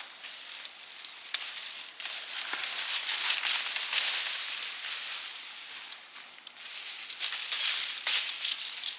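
Sweet potato vines and leaves rustling and crackling as they are pulled up by hand, in uneven swells that grow louder in the middle and again near the end.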